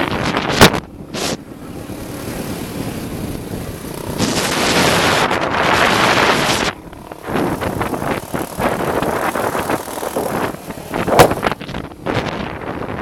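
Motocross dirt bike engines running, mixed with heavy wind buffeting on the microphone. The sound grows loudest for a few seconds in the middle, and there are a few sharp knocks, one near the start and one near the end.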